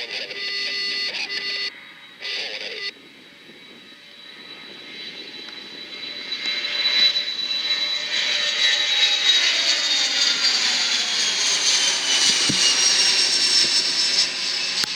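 Jet aircraft passing close by: its engine noise builds over several seconds, then its whine falls in pitch as it goes past. It is preceded by a short burst of air-band scanner radio that cuts out twice.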